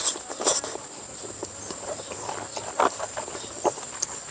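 Eating sounds: scattered soft clicks and smacks of someone chewing food.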